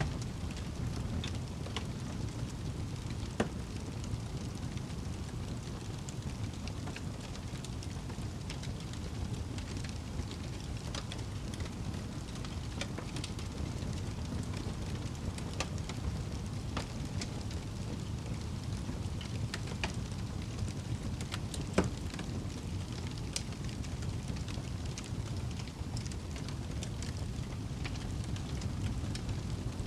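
Wood fire crackling in a fireplace: a steady low rumble of burning, scattered light crackles, and two louder pops, about three seconds in and again a little past two-thirds of the way through.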